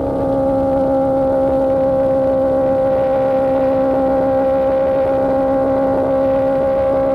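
Superbike engine through an Austin Racing GP1R exhaust, running at a steady engine speed while cruising, with wind and road noise underneath.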